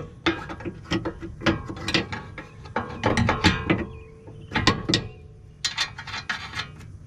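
Metallic clicks and clanks in short bursts every second or so, from hand tools and steel suspension parts being worked as a new front control arm is fitted to a Camaro.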